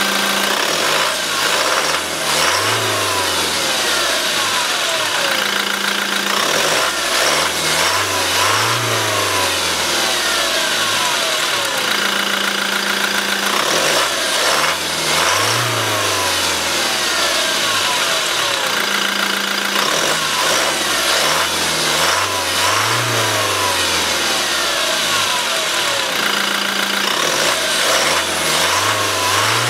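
Toyota Hilux diesel engine running under the open bonnet, revved up and let fall back to idle about every seven seconds, five times over.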